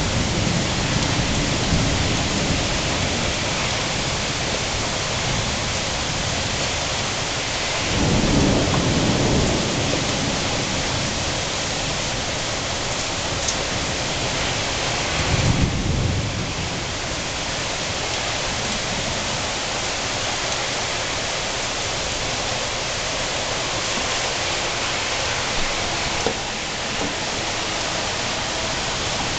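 Steady rain during a thunderstorm, with low rolls of thunder: one at the start, a longer one about eight seconds in, and another around sixteen seconds.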